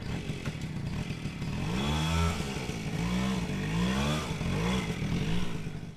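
Motorcycle engine running and being revved as it rides off, its pitch rising and falling several times.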